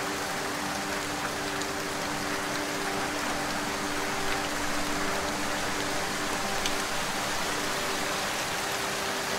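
Steady rain falling, an even hiss with scattered individual drops ticking, and a faint low hum that fades in and out.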